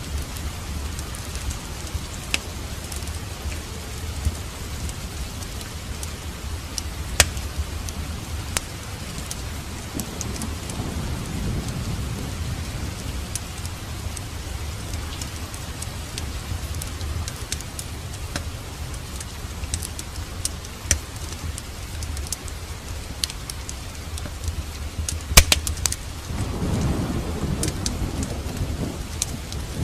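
Steady rain with thunder rumbling, swelling about ten seconds in and again near the end. Sharp pops from a crackling fireplace fire are scattered through it, the loudest a little before the thunder near the end.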